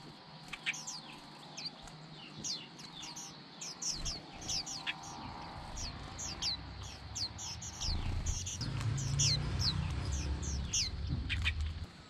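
White-eyes chirping: a steady stream of short, high, down-slurred chirps, several a second. A low rumble sets in underneath about two thirds of the way in.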